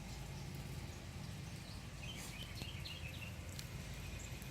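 Outdoor ambience: a steady low wind rumble on the microphone, with a few short, faint bird chirps about two seconds in.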